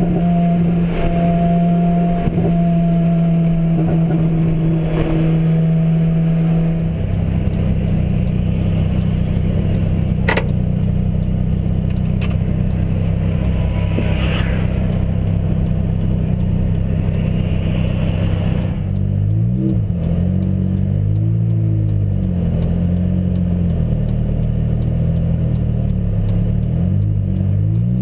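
Lotus Exige Scura's engine running, heard from inside the cabin as a steady low drone with road noise. Its tone shifts about seven seconds in and again near twenty seconds, where two close tones beat and weave against each other.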